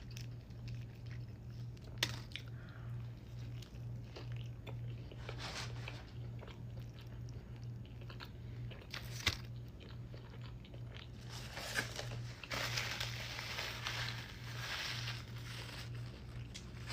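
Close-miked eating: biting and chewing food, with a few sharp crunches about two, nine and twelve seconds in and a longer stretch of crunching near the end, over a steady low hum.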